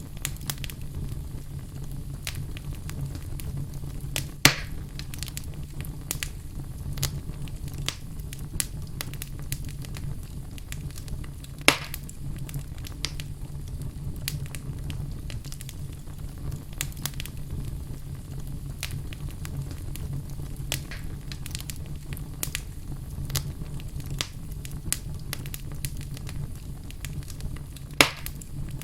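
Wood fire burning in a fireplace, crackling steadily over a low, even rumble. Three louder pops stand out: one about four seconds in, one near the middle and one near the end.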